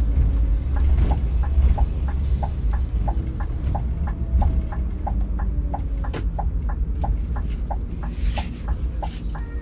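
Low rumble of a Scania K360iB coach on the move, heard inside the cabin. A short electronic pip repeats about twice a second over it from about a second in.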